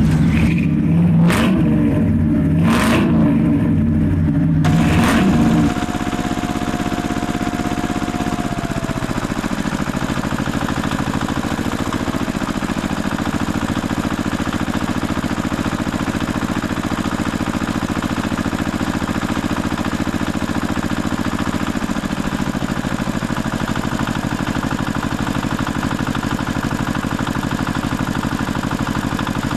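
A tractor engine running steadily with a rapid pulsing beat, with a few sharp knocks in the first seconds. A high tone slides down between about five and nine seconds in, and the sound changes to a lower, steadier run around the same time.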